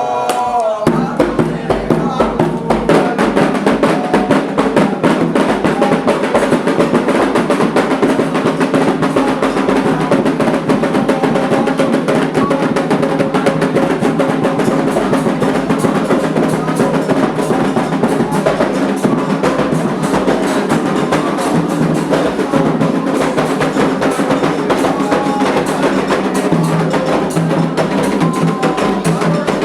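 Candomblé ritual drumming: atabaque hand drums and a struck bell playing a fast, dense, steady rhythm that starts about a second in.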